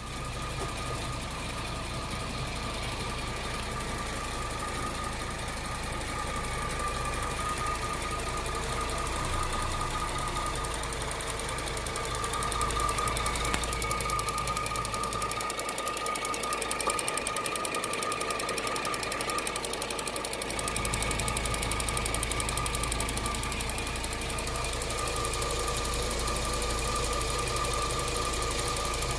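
A 2008 Cadillac CTS's 3.6-litre V6 running steadily, with a fast, even ticking clatter and a steady whine over it. This is the noise that showed up after the timing chains were replaced.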